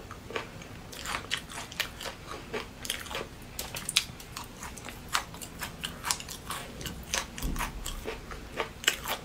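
A person chewing and crunching food close to the microphone: many quick, crisp clicks and crunches in an irregular run of bites.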